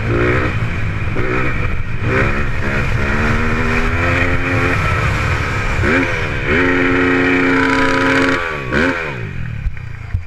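Dirt-bike engine at high revs, its pitch climbing and dropping with throttle and gear changes. About six seconds in it rises sharply, holds high for nearly two seconds, then falls away near the end.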